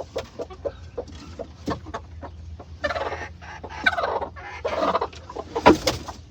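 Broody hens clucking in short rapid notes, with several longer harsh calls in the middle and a loud sharp one near the end.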